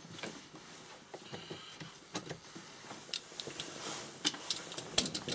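Irregular light clicks and ticks of Torx screws being backed out of plastic dashboard trim and the trim being handled, with a sharper click about five seconds in.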